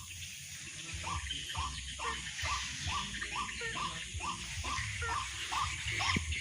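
White-breasted waterhen (ruak-ruak) calling: short notes repeated evenly, about two to three a second, over a steady hiss.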